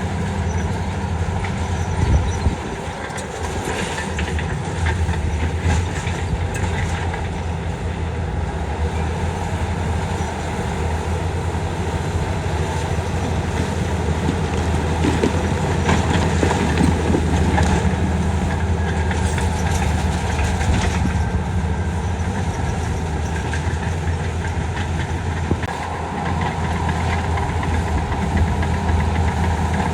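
Heavy diesel earth-moving machine, a bulldozer, running steadily under load, with scattered metallic clanks and rattles from its tracks and from rock.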